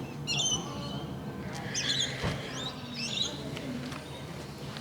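Small birds chirping in short, quick twittering phrases three times, over a low murmur of people talking. A single sharp click comes a little past two seconds in.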